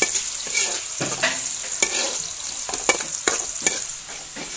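Chopped garlic and onion sizzling in hot oil in a pan while a metal spatula stirs them, clacking and scraping against the pan several times. The sound drops somewhat near the end.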